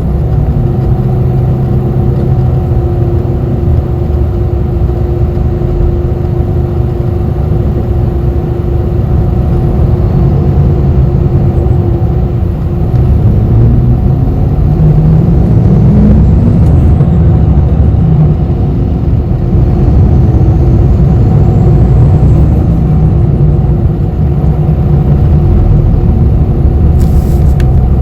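Inside a moving city bus: steady engine and road rumble with a constant hum. The engine note rises in the middle as the bus pulls away or speeds up, and a brief high hiss comes near the end.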